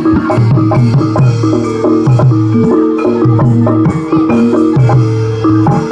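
Javanese gamelan music accompanying barongan: bronze metallophones play a repeating melody of held notes over deep drum or gong strokes that come about every second and a half.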